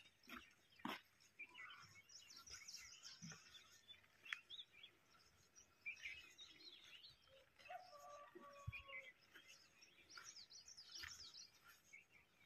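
Small birds chirping faintly and steadily in the background, with a few sharp clicks, the loudest about four seconds in.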